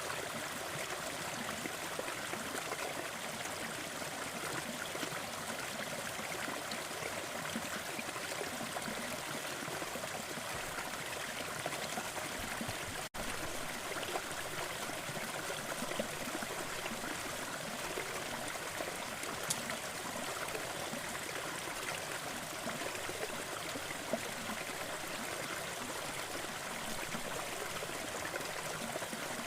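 Small forest waterfall splashing and trickling steadily, an even rush of water with a momentary dropout about halfway through.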